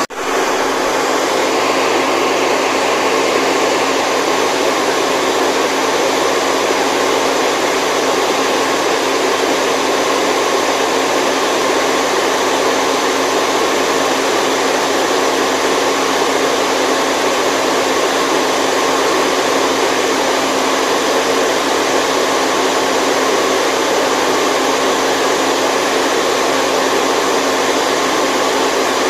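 Steady white-noise hiss with a faint whirring, machine-like hum of a few steady tones in it, unchanging throughout. The level dips briefly at the very start and recovers within half a second.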